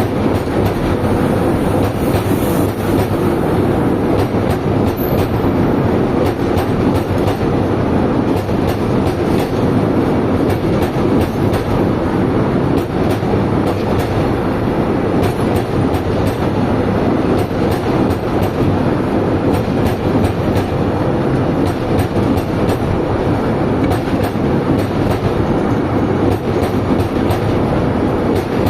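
Container goods train's wagons running on the track: a steady rumble of wheels on rail, with clickety-clack over the rail joints.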